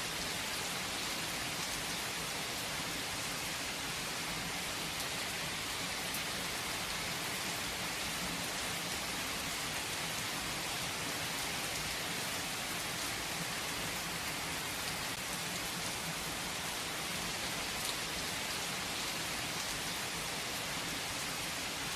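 Steady rain falling: an even hiss of many drops, with a few sharper drop ticks now and then.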